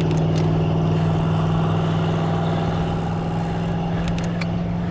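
Riding noise on a road bike: a steady low hum with road and wind noise, broken by a few sharp clicks just after the start and again about four seconds in.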